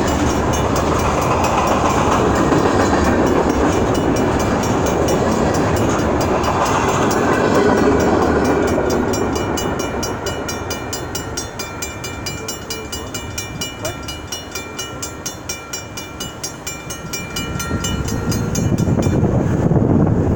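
A train running past close by: a steady, loud rumble and rush of wheels on the rails, with faint high squealing tones in the second half. The sound eases off for a while, then swells again near the end.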